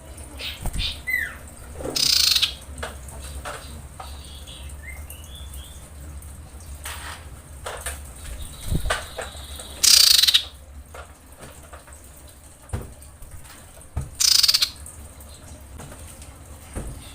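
Female common iora calling: three loud, harsh screeching bursts of about half a second each, with fainter short chirps between them. These are the calls of a female in breeding condition calling for a male.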